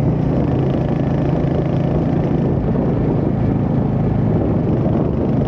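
Royal Enfield Hunter 350's single-cylinder engine running steadily at a constant cruising speed, with an even, unchanging note.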